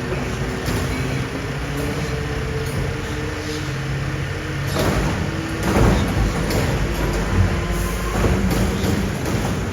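Mercedes-Benz Arocs garbage truck running, with a steady mechanical hum whose pitch shifts and a few knocks and clanks about five to six seconds in.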